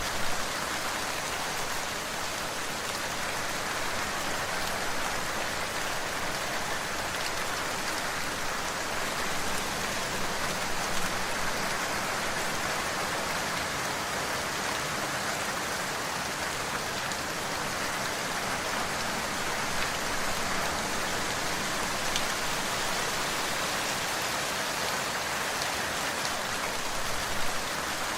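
Steady rain falling on a surface, with a few louder individual drops standing out now and then.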